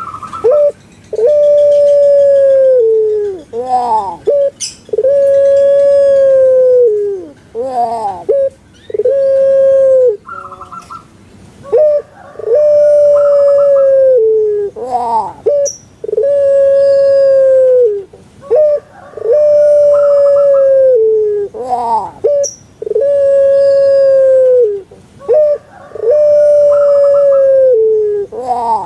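Puter pelung (domestic ringneck dove) cooing repeatedly: about eight long, loud, held coos, each dropping at the end and separated by short rolling rising notes, the kuk–gerukkk–kwokkk song the breed is kept for. A few brief high chirps from another small bird come between the coos.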